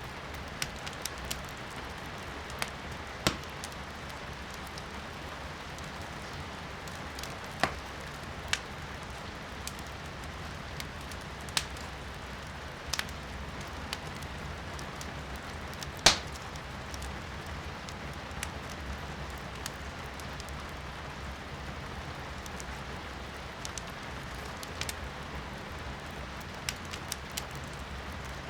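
Firewood burning in a fireplace, crackling and popping with sharp irregular snaps, the loudest about halfway through, over the steady hiss of rain heard from indoors.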